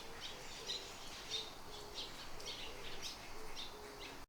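Small birds chirping outdoors, many short high chirps a few times a second, with faint low hooting notes underneath.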